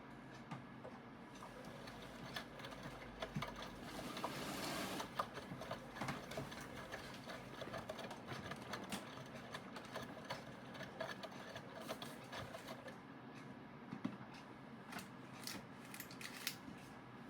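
Aidoo 1 kg direct-drive mini washing machine running through its wash cycle: a small motor working steadily, with many irregular clicks and knocks and a short swell of noise about four seconds in.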